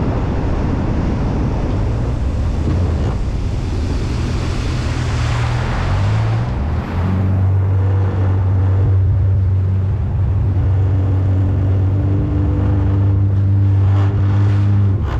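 Jet ski engine running steadily under way, with water and wind rushing. The engine note holds steadier from about halfway through.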